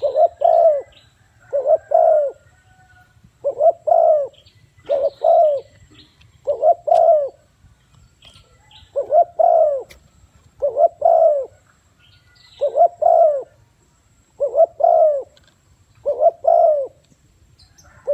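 Spotted dove cooing: a low coo phrase of two or three notes repeated about ten times, roughly every one and a half to two seconds.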